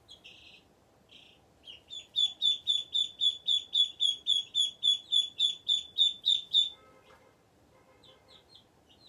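Baby chicks peeping: a run of loud, high, short peeps at about four a second, with fainter peeps before and after it.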